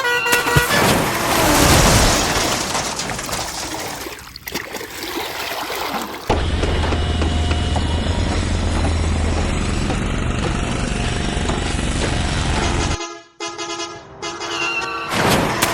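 Vehicle horn honking in short toots at the start and again near the end. In between, a noisy rushing stretch gives way about six seconds in to a steady low vehicle engine rumble that cuts off abruptly about 13 seconds in.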